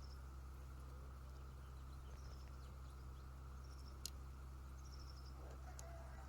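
Quiet rural ambience: a few faint short series of high bird chirps over a steady low hum, with one sharp click about four seconds in.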